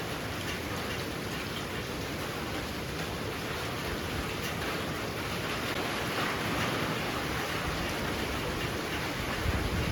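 Heavy rain falling steadily in a dense, even hiss, swelling a little about two-thirds of the way through, with a short low bump near the end.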